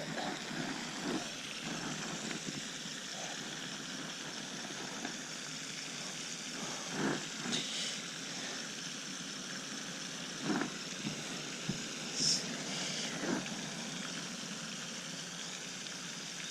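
Steady outdoor background hiss with a few faint knocks and clicks scattered through it.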